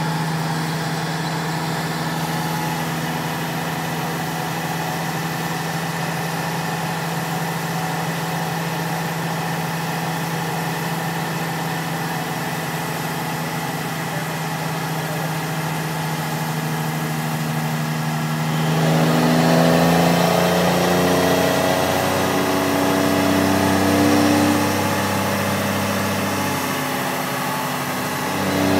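6.7 Cummins inline-six turbo-diesel on a chassis dyno, running at a steady speed, then revving up, rising in pitch and getting louder about two-thirds of the way through, easing briefly and climbing again near the end.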